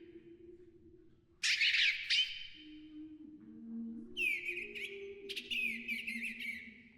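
Recorded bird calls played back as part of a piece's fixed media: a burst of calls about one and a half seconds in, then a run of chirps and trills from about four seconds on. Under them run low, steady sustained tones that change pitch now and then.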